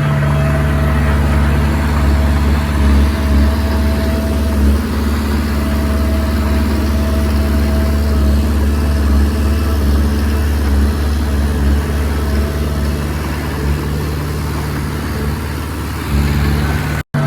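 Komatsu D20P bulldozer's diesel engine running steadily while it works, with a low, even drone. The sound cuts out for an instant near the end.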